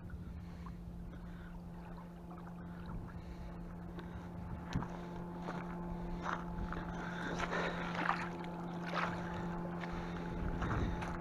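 An engine droning steadily at one pitch, with a few short, irregular higher sounds over it in the second half.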